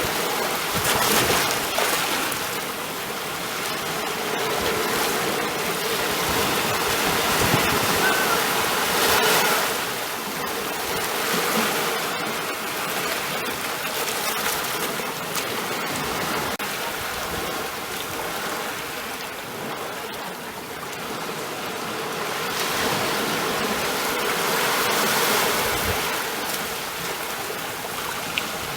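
Ocean waves washing on the shore in a steady rush of surf, swelling louder and easing off every several seconds.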